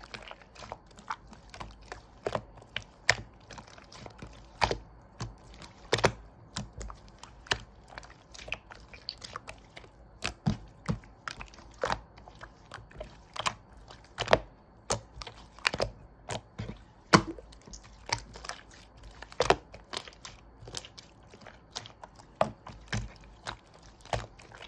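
Slime being squeezed and poked by hand, making irregular sharp clicks and pops, a few each second.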